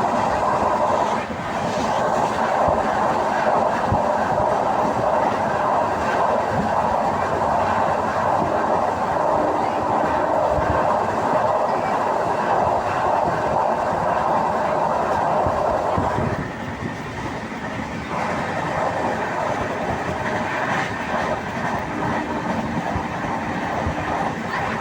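Passenger train running, heard from inside the coach: a steady rumble and rattle with the clatter of wheels on the rails. About two-thirds of the way through, the noise eases a little and loses some of its middle.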